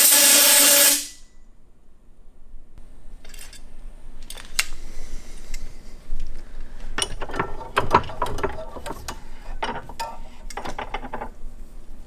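Motorcycle fork parts being handled on the bench: irregular metallic clicks, taps and scrapes, busiest in the second half. A loud hiss cuts off about a second in.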